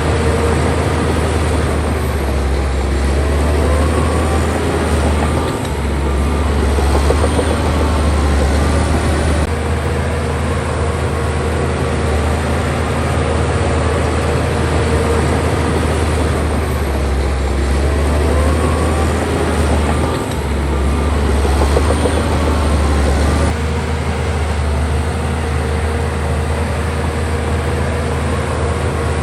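Heavy diesel engine of a bulldozer running steadily under load, a deep hum with brief dips in level twice and a faint rising whine now and then.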